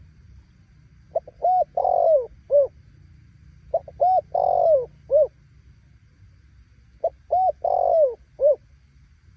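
Spotted dove cooing: three phrases a few seconds apart, each a quick pair of short notes, a longer drawn-out coo and a short closing note.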